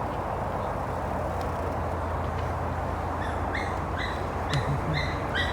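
Steady low rumbling background noise, with a bird chirping in short, high notes about twice a second in the second half.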